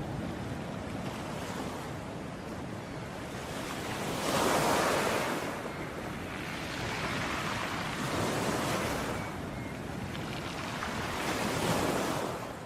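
Ocean waves washing onto a shore, the surf swelling and ebbing in a steady hiss, with louder breaks about four seconds in, around eight seconds and near the end.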